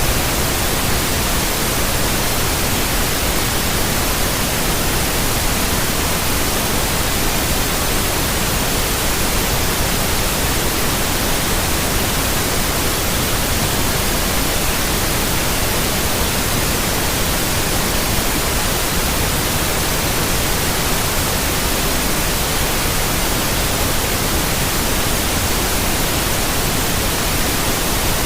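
Steady white noise: an even, unbroken hiss across the whole range, with no change in level or character.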